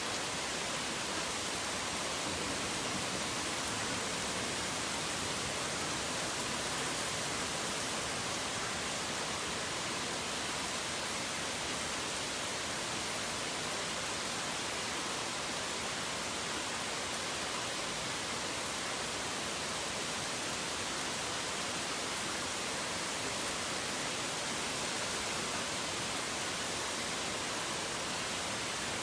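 Rain falling steadily, an even hiss with no single drops, thunder or birds standing out.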